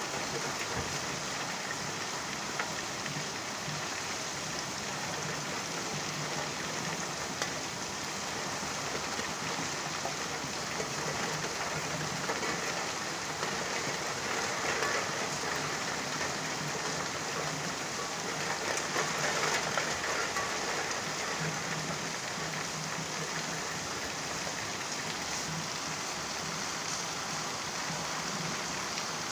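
Steady rain falling, an even hiss of drops on surfaces with a few scattered single drops ticking, swelling slightly for a moment about halfway through.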